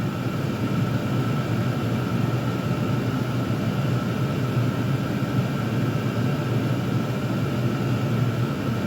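Chinese diesel air heaters running: a steady whoosh of combustion and blower fans with a faint steady whine and a low hum.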